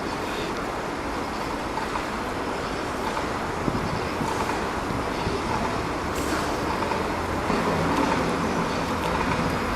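Steady outdoor traffic and road noise, an even rumbling hiss with no clear events. Faint steady tones come in about three-quarters of the way through.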